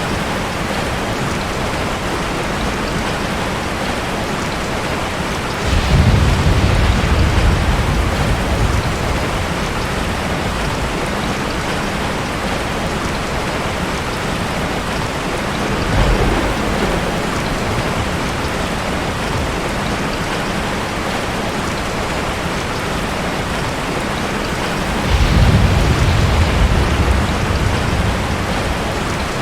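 Steady rain with thunder rumbling three times: a long roll about six seconds in, a short one around the middle, and another long roll near the end.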